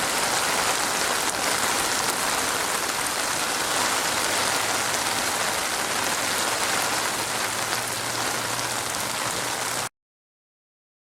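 Steady, dense rainfall, a continuous hiss of drops, that cuts off abruptly near the end into silence.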